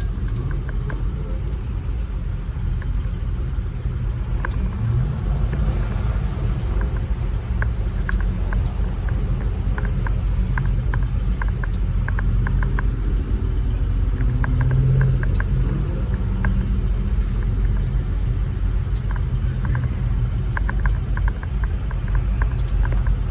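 1950 Dodge pickup's old flathead six running, heard from inside the cab: a steady low rumble that swells a little twice, with scattered light ticks and rattles over it.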